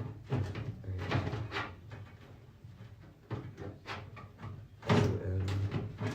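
Handling noises inside a washing machine: a series of plastic clicks and knocks as wiring and cable clips are pushed into place and parts are moved, the busiest and loudest stretch about five seconds in.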